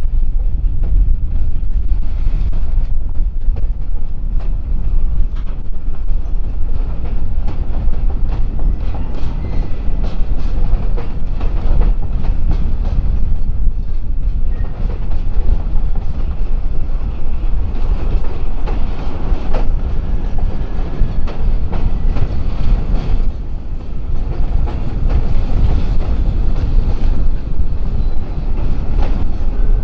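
Freight train rolling past, its cars clattering over the rail joints with a steady low rumble.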